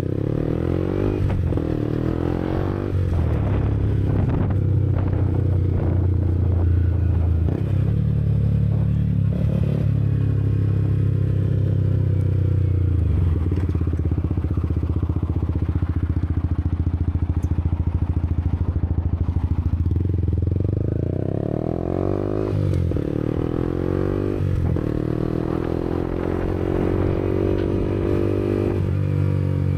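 Yamaha MT-125's single-cylinder 125 cc four-stroke engine running through a Black Widow aftermarket exhaust while the bike is ridden, the engine note holding steady for stretches and climbing in pitch as it revs up about two-thirds of the way through.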